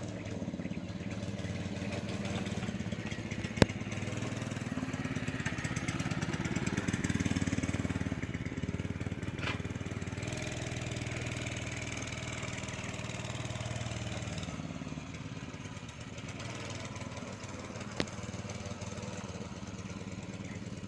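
Mini bike's small engine running, getting louder and higher in pitch about six or seven seconds in, then easing back. Two sharp clicks, the louder one about three and a half seconds in and another near the end.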